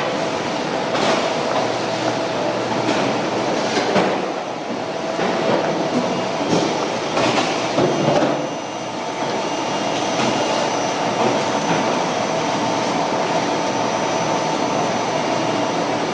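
Kimchi-processing machinery running on a filling and packing line: a steady mechanical din with a few faint steady tones and irregular sharp clacks.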